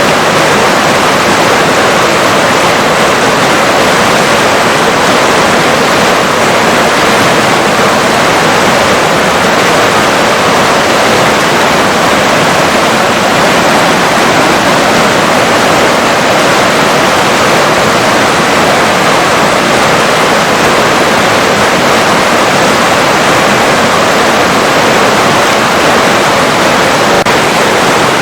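River water flowing: a loud, steady rush of water that does not change.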